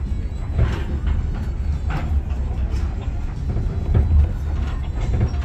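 Passenger train rolling slowly, heard from inside a coach: a steady low rumble with a few sharper clacks.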